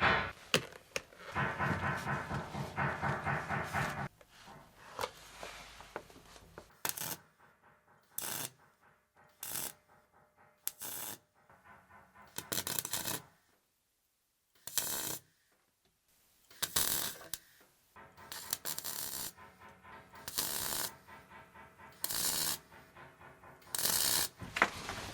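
Welder tack-welding a new exhaust pipe joint: about a dozen short welding bursts, each under a second, spaced a second or two apart.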